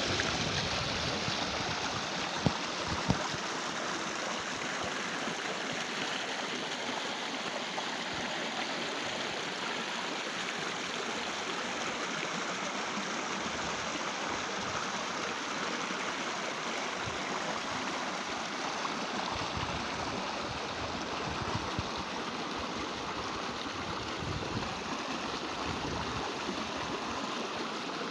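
Steady rushing and gurgling of a stream flowing over rocks. Two short sharp knocks come close together a few seconds in.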